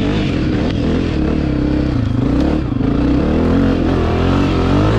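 Dirt bike engine running hard, its pitch rising and falling with the throttle.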